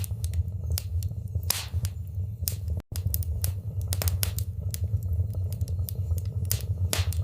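Wood fire in a fireplace crackling, with irregular sharp pops and snaps over a steady low rumble of the flames. The sound cuts out for an instant about three seconds in.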